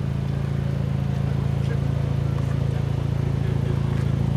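A car engine running steadily at an even speed, a low drone that does not rise or fall.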